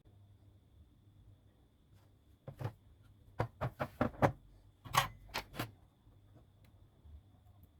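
A quick run of about nine sharp clicks and knocks of handling on the bench, in the middle of the stretch, over a faint steady high tone.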